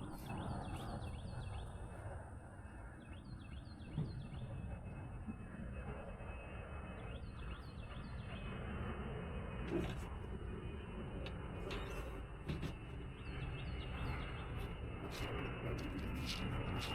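A songbird sings the same short phrase of quick falling notes four times over a low aircraft rumble that grows louder toward the end. A few sharp knocks sound along the way.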